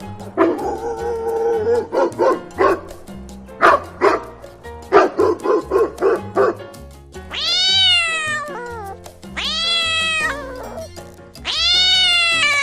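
A dog barking in quick bursts, then a cat giving three long meows that rise and then fall in pitch, over background music.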